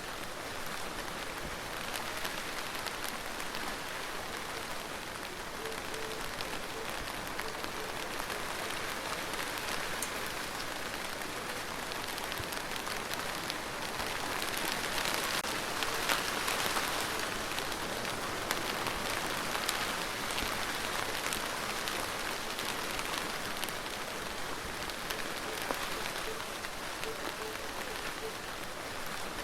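Steady rain falling on a surface, as an even hiss of many drops. It grows heavier about halfway through, then eases back to a lighter rain.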